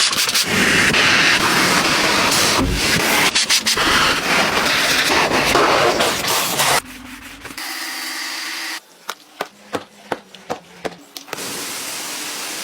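Car wash running: a loud, steady rush of spraying water and scrubbing for about seven seconds. It then drops abruptly to quieter machine noise, with a run of sharp clicks in the second half.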